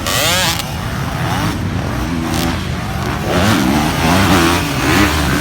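Several dirt bike engines revving and running together, their pitch rising and falling as riders work the throttle.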